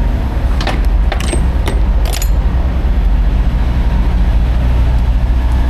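Peterbilt 389X semi-truck's diesel engine idling steadily, with a few short metallic clinks about a second or two in.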